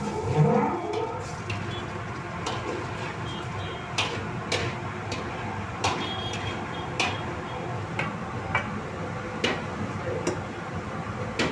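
Metal utensils clinking against cookware in about a dozen irregular, separate clicks over a steady background noise. A short rising sound comes near the start.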